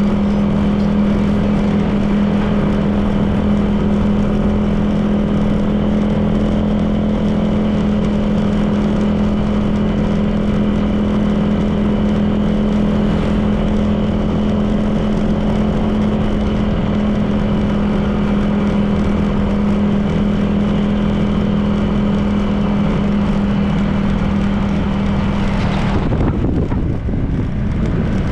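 Honda PCX 160 scooter's single-cylinder engine running at a steady cruising speed, with road and wind noise. Near the end the steady engine note breaks off and gives way to a wavering sound.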